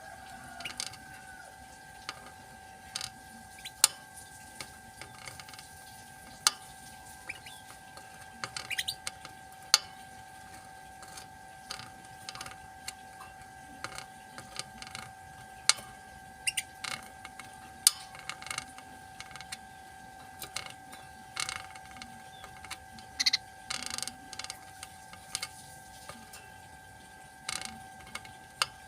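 Irregular sharp clicks and taps, scattered a few at a time, over a steady high-pitched hum.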